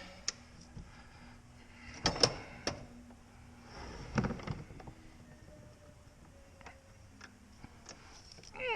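Heavy metal pieces being handled on a workbench: a few separate knocks and clunks with brief scraping in between, quieter in the second half.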